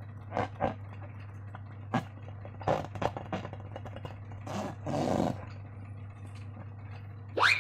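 Slime squelching and crackling as it is squeezed and worked by hand, with short wet clicks and a few longer squishes over a steady low hum. Near the end comes a sharp rising squeak.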